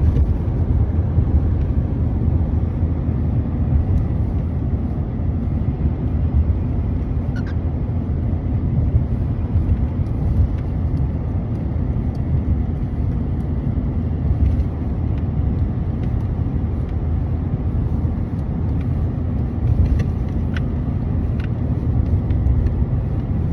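Car road and engine noise heard from inside the cabin: a steady low rumble, with a few faint short high-pitched sounds now and then.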